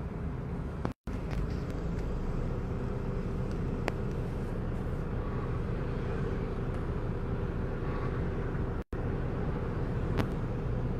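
Street traffic: vehicle engines running with a steady low rumble and road noise. The sound cuts out completely for a split second twice, about a second in and near nine seconds in.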